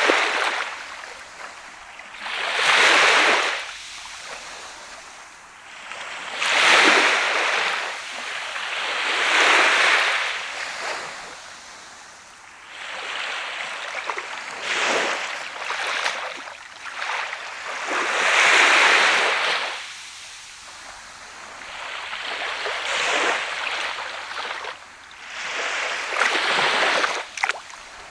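Small waves breaking and washing up on a sandy beach, each surge swelling and fading, one about every three seconds.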